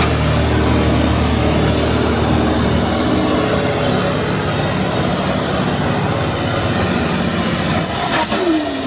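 Gas-turbine engine of a tractor-pulling machine whining steadily at high pitch, then spooling down with a falling whine near the end.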